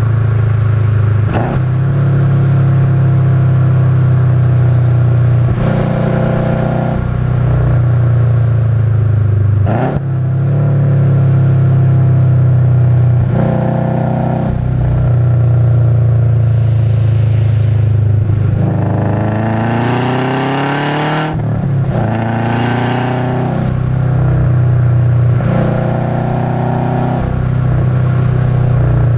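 2005 Subaru Legacy GT's turbocharged flat-four engine heard from inside the cabin, driven hard: the revs rise and fall through the corners, with a few brief dips between pulls and a long climbing pull about two-thirds of the way through.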